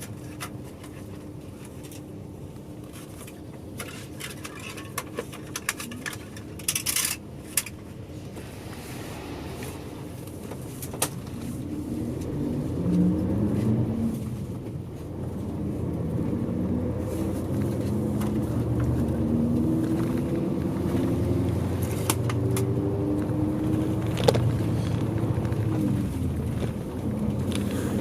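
Bus engine idling with a few scattered clicks, then from about eleven seconds in the bus pulls away and accelerates, its engine pitch rising and dropping back at each gear change, heard from inside the cabin.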